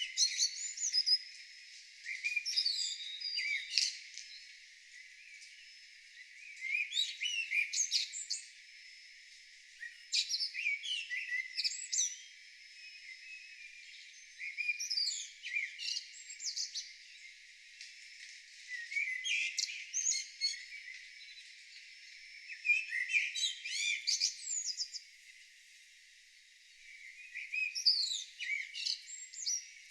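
A songbird singing, about eight short phrases of quick, varied high notes, each lasting about two seconds, with pauses of a second or two between them.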